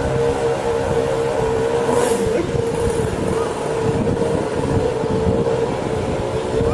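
Motor vehicle engine running at a steady pitch, with road and wind noise.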